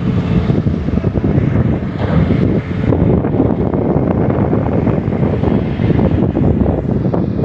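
Diesel engines of long-arm excavators working, a loud, steady low rumble.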